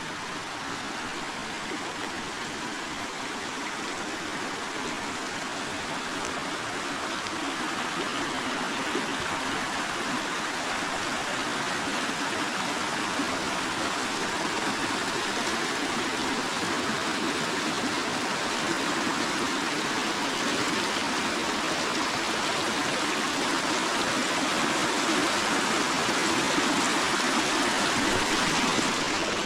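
A forest river flowing: a steady rush of running water that grows gradually louder.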